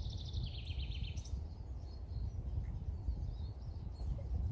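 A songbird's rapid trill in the first second or so, stepping down in pitch partway through, with a few fainter chirps later, over a steady low rumble of wind on the microphone.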